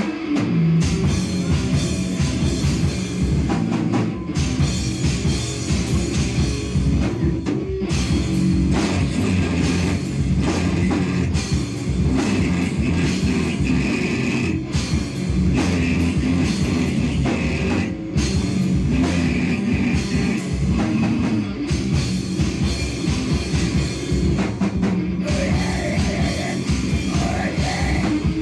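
A loud live band playing heavy, noisy rock, with a drum kit hit throughout under a dense wall of sound.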